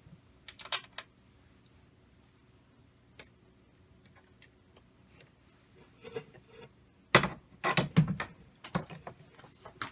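Scattered light clicks, then a cluster of louder knocks and clatter about seven to eight and a half seconds in: parts and tools being handled while working on an air engine.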